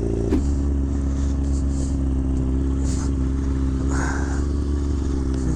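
Kawasaki ZX-6R 636 inline-four engine running with a steady note, which shifts slightly about a third of a second in.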